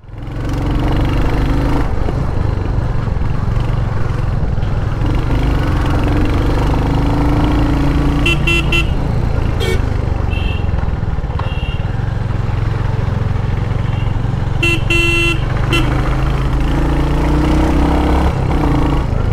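Royal Enfield Hunter 350's 349cc air/oil-cooled single-cylinder engine running steadily while riding in city traffic. Vehicle horns honk briefly several times, around 8 to 11 seconds in and again around 15 seconds in.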